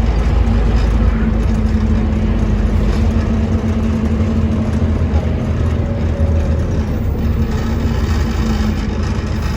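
Scania OmniCity bus's diesel engine running, a steady low drone with road noise.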